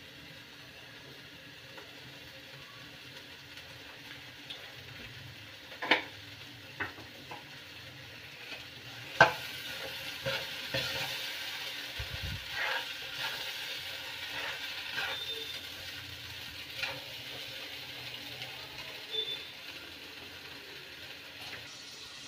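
Masala paste with green peas sizzling in a kadhai while a metal spatula stirs and scrapes it. Sharp clicks of the spatula on the pan come about 6 and 9 seconds in, and the sizzle and scraping grow louder from about 9 seconds on.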